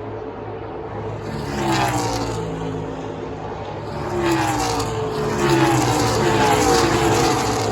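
NASCAR Xfinity stock cars' V8 engines running at speed on track, with several cars passing one after another, each engine note falling in pitch as it goes by. The passes grow louder toward the end, under a steady engine drone.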